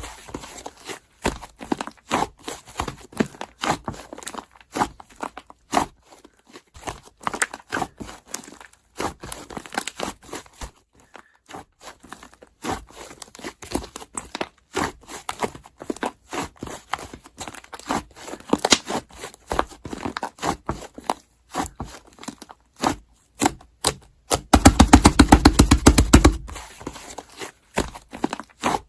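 Slime being squished and poked by hand, giving irregular sticky clicks, pops and crackles, with a denser, louder stretch of fast popping near the end.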